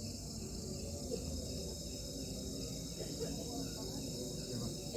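A chorus of crickets chirring steadily in a continuous high-pitched shimmer.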